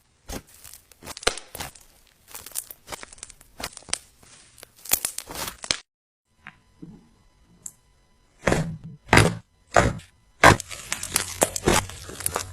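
Slime being squeezed and pressed by hand, giving irregular bursts of crackling and crunchy pops. There is a brief pause near the middle, and the crunching comes back louder and denser after it.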